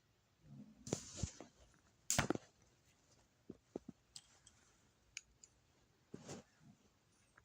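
Scattered light clicks and taps with a few brief rustles, from a cat playing with a toy.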